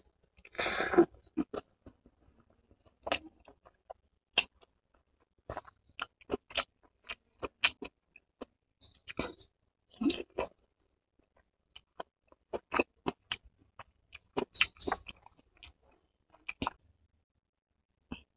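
Close-miked chewing of a steamed vegetable momo with a capsicum, onion and cabbage filling: a bite about half a second in, then scattered wet mouth clicks as it is chewed.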